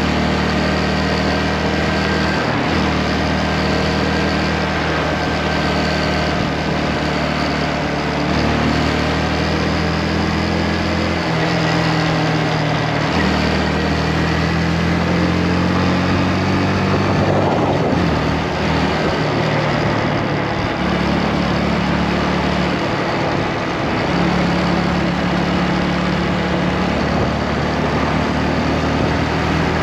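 Motorcycle engine running while riding, its pitch holding steady and then shifting up or down every few seconds with the throttle, under a steady rush of wind noise.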